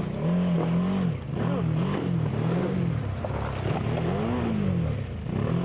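BMW GS adventure motorcycle's boxer-twin engine on an off-road trail, its pitch rising and falling again and again as the throttle is opened and eased, several swells in a row.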